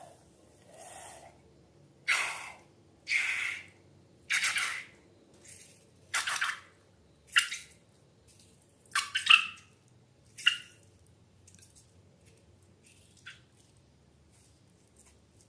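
Slime being squeezed and worked by hand: a series of about ten short squelching sounds at irregular intervals, some with a sharp pop-like onset, thinning out near the end.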